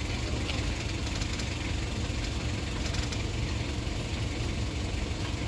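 A vehicle engine running steadily at low revs, a continuous low rumble.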